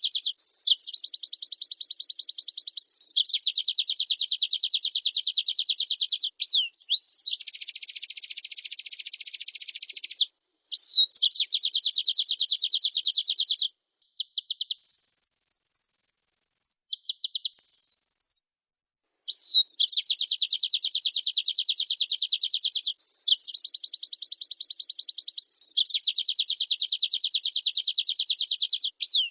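White-eye (pleci) singing in long, very rapid trilled phrases of a few seconds each, joined by quick up-and-down whistled sweeps. About halfway through, the song breaks for two short blocks of a higher, hissing buzz.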